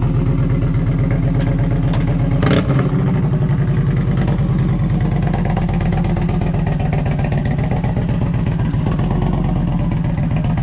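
Indian Challenger V-twin with a TAB Performance 2-into-1 cat-delete exhaust idling loudly and steadily, with one sharp clunk about two and a half seconds in.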